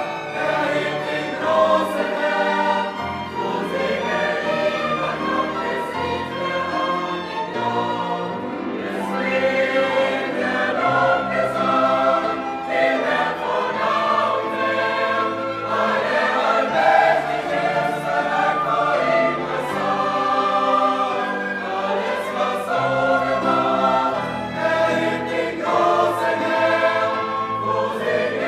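Choral music: a choir singing sustained, layered parts.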